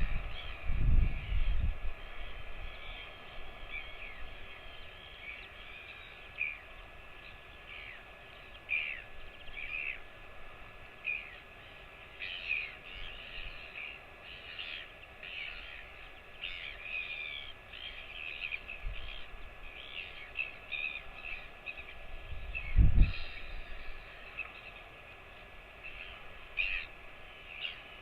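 Small birds chirping repeatedly: many short, high calls, thickest in the middle stretch. Brief low rumbles come at the start and about 23 seconds in.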